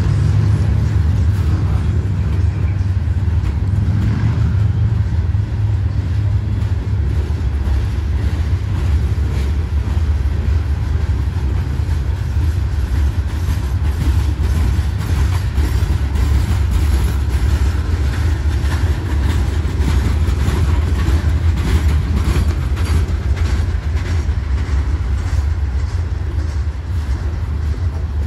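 Herzog rock train's hopper and gondola cars rolling past close by: a steady, loud rumble of steel wheels on the rails, with a continuous run of clicks and clacks.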